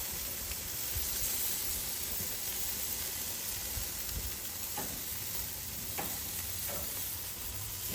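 Meat sizzling on a grill, a steady hiss, with a couple of faint clicks about five and six seconds in.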